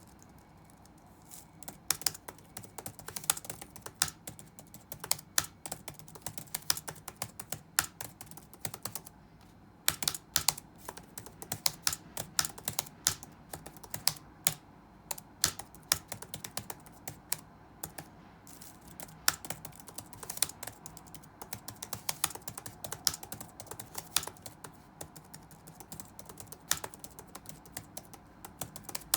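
Typing on a computer keyboard: quick, irregular key clicks with occasional louder strokes, starting a second or two in and pausing briefly near the middle.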